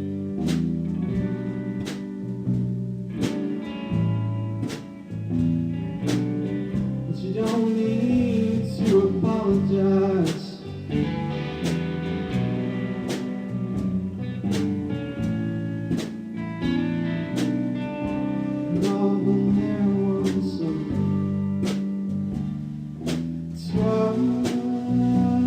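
Instrumental passage of a band song: guitar playing over a steady beat of sharp hits, with pitched notes held and changing.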